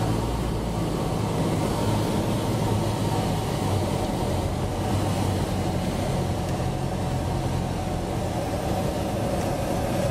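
Cessna 172's piston engine and propeller running steadily, heard from inside the cabin as a constant low drone with air noise over it.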